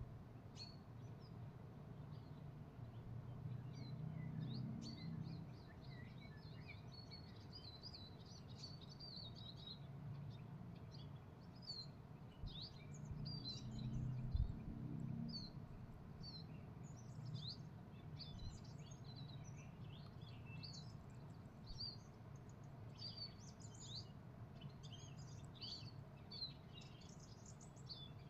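Small birds chirping in many quick, short, high notes throughout, faint, over a low background rumble that swells up twice and dies back.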